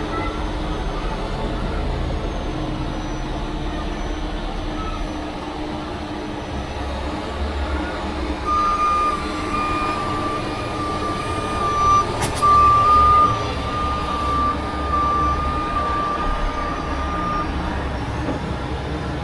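A vehicle's engine running steadily, joined about halfway through by a reversing alarm that beeps about once a second for around nine seconds before stopping.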